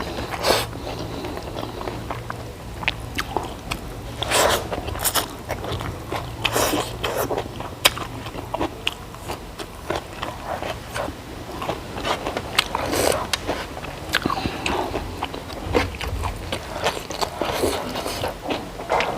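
Close-miked eating sounds: a person biting and chewing food, with irregular crunches, smacks and clicks.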